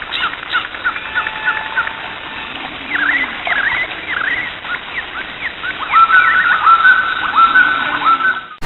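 Birds chirping and calling: many short whistled notes, with a run of repeated, evenly spaced calls in the second half.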